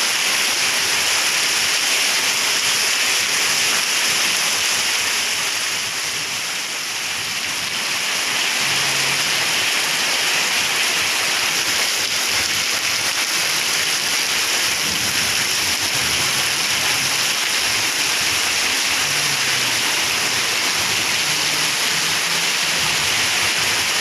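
Heavy rain pouring steadily, easing slightly about six seconds in before picking up again.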